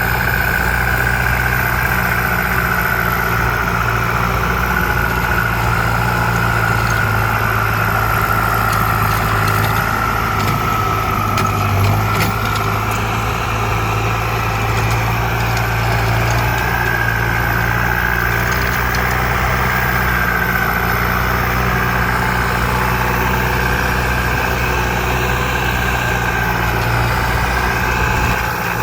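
ZT 155 tractor's engine running steadily: a deep, even drone with a high whine above it that sags a little and comes back up.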